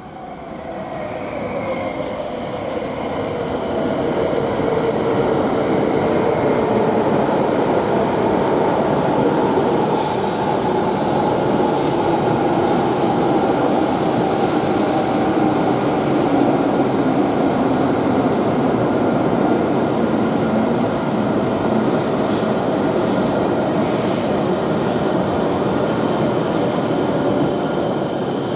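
E7 series Shinkansen pulling into the platform and slowing. A loud rush of wheels and air builds over the first few seconds, a hum slowly falls in pitch as the train loses speed, and a steady high squeal sets in about two seconds in.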